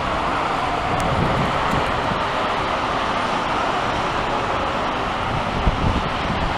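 Strong wind of a snowstorm rushing steadily, with low buffeting of gusts on the microphone growing toward the end.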